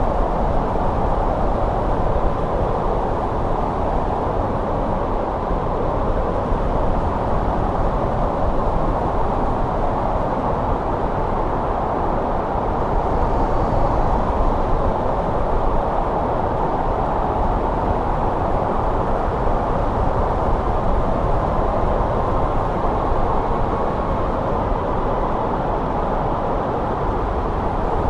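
Steady winter wind blowing as a dense, low, even rush with no gusts or breaks.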